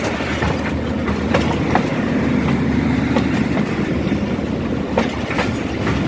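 Passenger train coaches rolling past on the track, the wheels clacking over rail joints now and then against a steady rumble.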